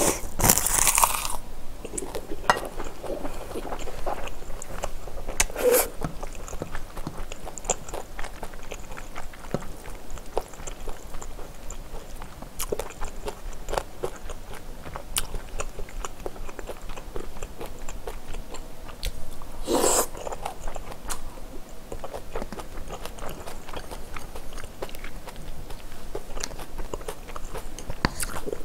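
Close-up eating sounds: chewing and crunching of rice wrapped in dried roasted seaweed, with many small wet mouth clicks. A denser crackle in the first second and a few louder bursts, the loudest about twenty seconds in.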